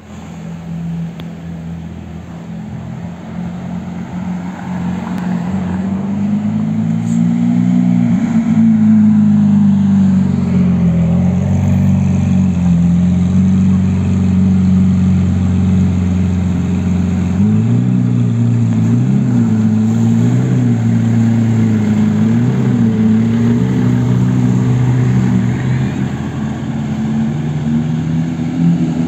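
ERRE 20 Safari raised off-road car's engine running at low revs as the car drives slowly by, growing louder over the first several seconds. About two-thirds of the way through, the engine pitch rises and falls a few times under light throttle.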